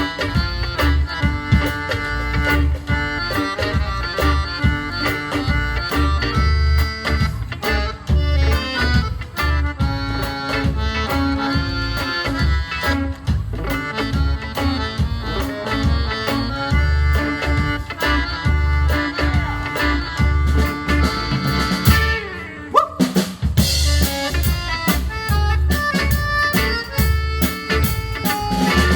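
Live folk dance band playing an up-tempo, Jewish-music-inspired instrumental, the accordion carrying the tune over a steady drum beat. About 22 seconds in, the beat drops out briefly with a quick rising slide before the full band comes back in.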